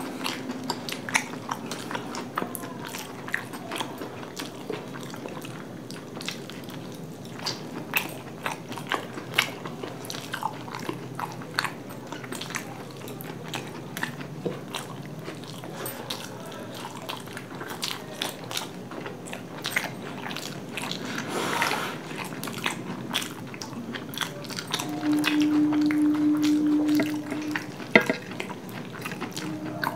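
Two people chewing and biting big steamed chicken momos close to the microphone, with frequent short mouth clicks and smacks. Near the end a steady held tone lasts about two seconds.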